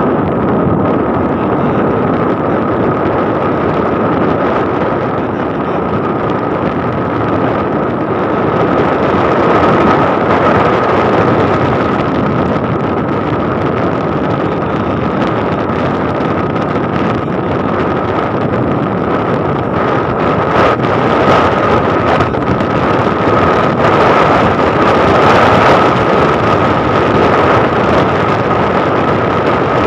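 Wind rushing over the microphone on a moving motorcycle, with the motorcycle's engine running steadily underneath and a constant high whine.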